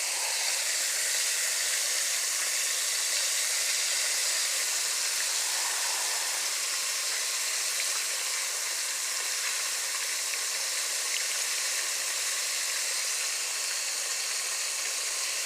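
Chicken tenders frying in hot oil, a steady sizzle that holds evenly throughout.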